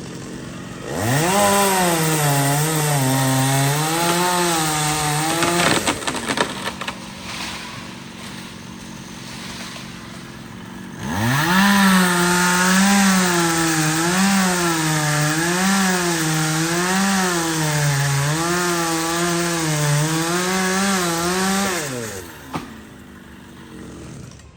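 Chainsaw cutting through tree branches in two runs. The engine revs up about a second in, its pitch wavering as it works through the wood, and drops back after about five seconds. It revs up again for a longer cut of about ten seconds and falls back near the end.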